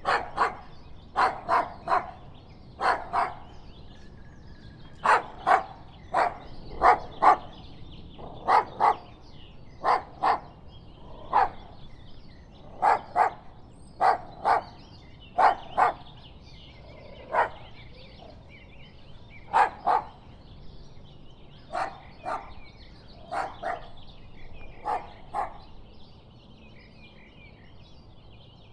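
Dog barking repeatedly in short, sharp barks, often two in quick succession, stopping a few seconds before the end.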